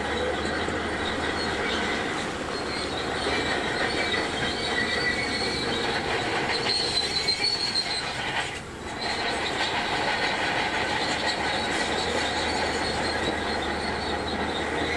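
Shantui DH17C2 crawler bulldozer working, its engine running under a steady high-pitched metallic squeal from the steel tracks, with a brief drop in loudness about nine seconds in.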